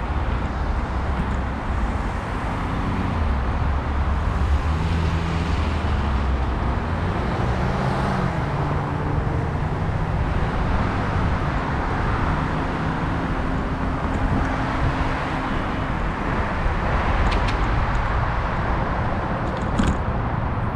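Road traffic: a motor vehicle's engine runs close by for about ten seconds, its pitch shifting in steps, over a steady rush of wind and road noise.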